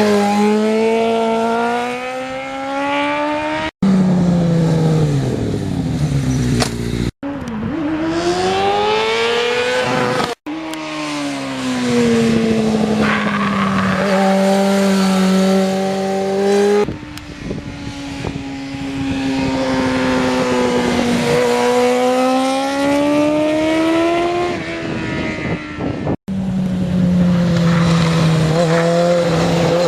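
Kawasaki ZX6R Ninja (2001) inline-four engine running under riding load, its pitch climbing and falling repeatedly as it revs up and eases off. The sound comes in short stretches of a few seconds, each cut off suddenly.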